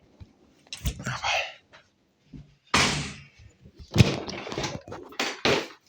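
A series of separate knocks and thuds, about five or six of them, the loudest about four seconds in.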